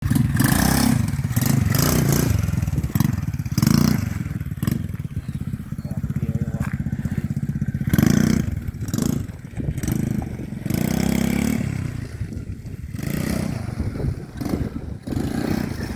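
Radio-controlled model quad bike driving and turning, its motor running in uneven surges with clattering and scraping from the chassis and tyres on the ground.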